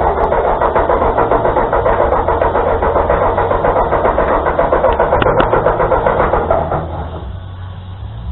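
1945 Ford 2N tractor's four-cylinder flathead engine being cranked over with fresh fuel primed into it, a fast even chugging for about seven seconds that then stops.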